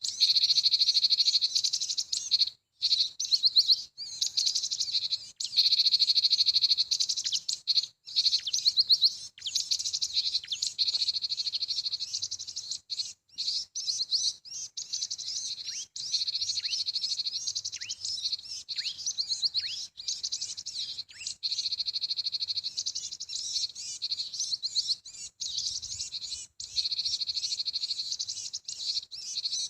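Small songbirds chirping and trilling without pause in a dense, rapid, high-pitched stream that breaks off briefly several times.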